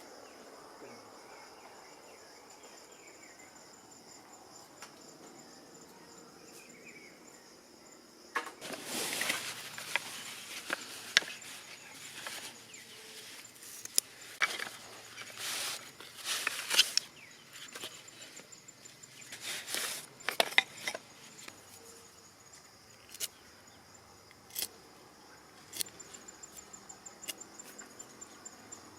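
Insects trilling steadily at a high pitch. From about a third of the way in until about two-thirds, a loud stretch of irregular noise with sharp clicks covers them, and near the end there is a fast, even run of ticks.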